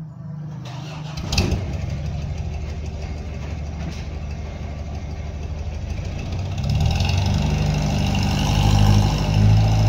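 An engine running steadily, with a sharp knock about a second and a half in. The engine grows louder from about seven seconds.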